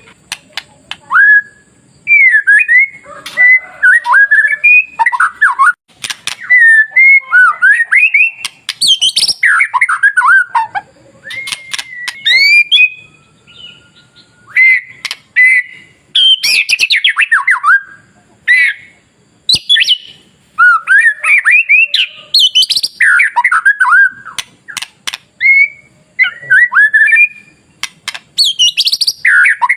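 White-rumped shama (murai batu) singing: phrases of loud whistled notes and quick sweeping glides, broken by short pauses, with sharp clicks between some phrases.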